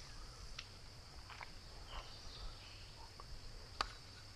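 Steady high-pitched insect chorus, with a few short scattered chirps and one sharp click near the end.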